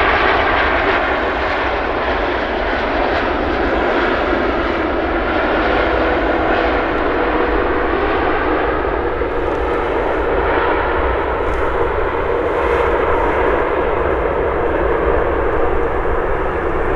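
Airbus A330-343 jet engines, Rolls-Royce Trent 700s, running loud during the landing rollout just after touchdown, a steady rushing jet noise that eases a little after the first seconds.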